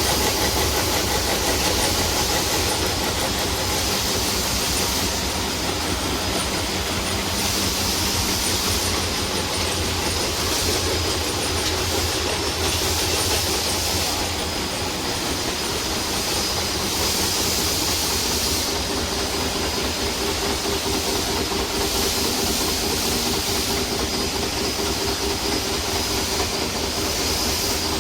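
Milling machine running steadily on a job: a continuous mechanical noise with a steady high whine and a low hum.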